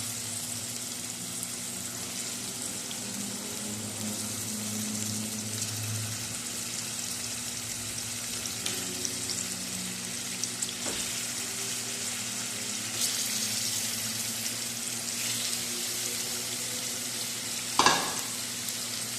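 Raw chicken pieces sizzling as they fry in hot oil with onion and ginger-garlic paste, stirred now and then. A single sharp knock comes near the end.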